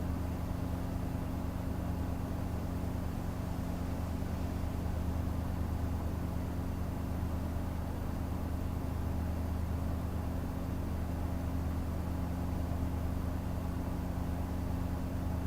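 Workshop machine's electric motor running steadily with a low hum, not cutting.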